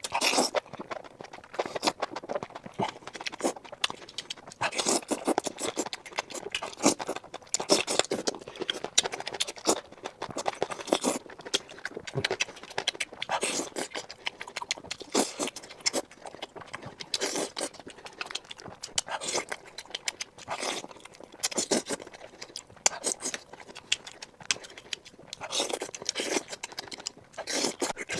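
Close-up chewing of crunchy food: dense, irregular crackling and crunching bites in clusters every second or two.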